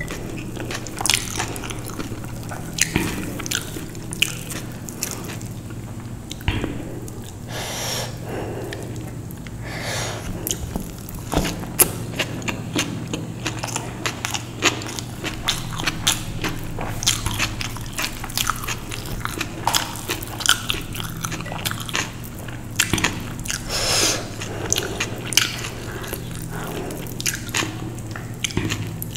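A person biting and chewing food close to the microphone, with irregular crisp crunches and mouth sounds, over a steady low hum.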